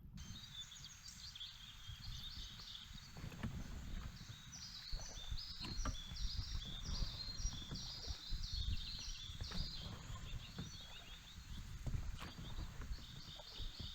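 A bird singing: a long run of short high notes repeated about twice a second, over a low rumble, with a few faint knocks.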